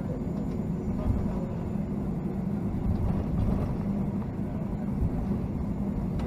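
Steady low cabin noise inside a Boeing 757-200 with its engines running, an even rumble with no distinct events.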